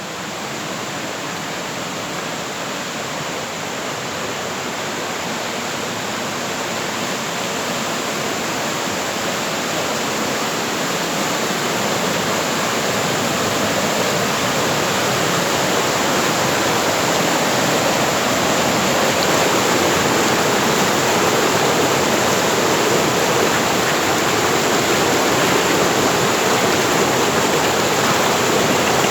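Fast-flowing river water rushing steadily, growing gradually louder and fuller as it comes nearer.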